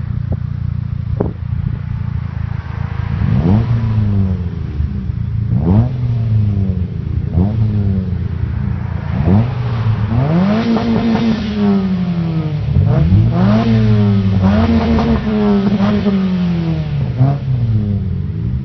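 2006 Mazda 3 engine through a muffler-deleted exhaust, revved up and let fall back about eight times in a row, each rev climbing quickly and dropping away more slowly.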